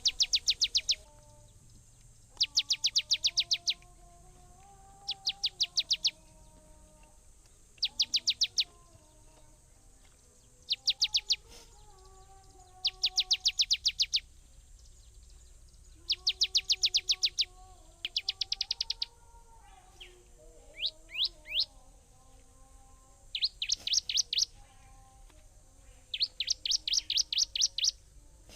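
A bird singing a repeated phrase: a quick series of about ten high chirps lasting around a second, given again every two to three seconds. Fainter, slowly wavering lower tones sound underneath.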